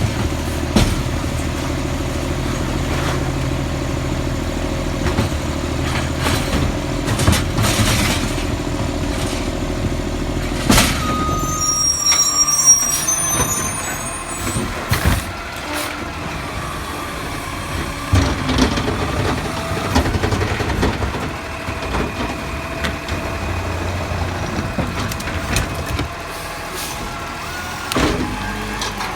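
Garbage truck working: its diesel engine runs steadily while knocks and clanks sound again and again. About twelve seconds in, the brakes give a brief high squeal.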